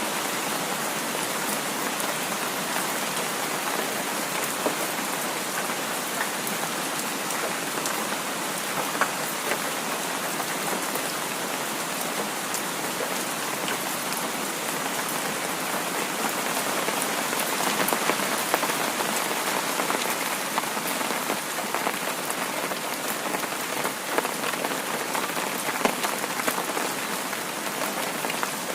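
Heavy rain falling steadily: a dense even hiss dotted with sharp ticks of single drops.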